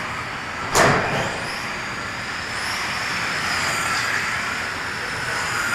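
Electric radio-controlled race cars running laps, their motors giving a high whine that rises and falls in pitch as they accelerate and brake. There is one sudden loud burst about a second in.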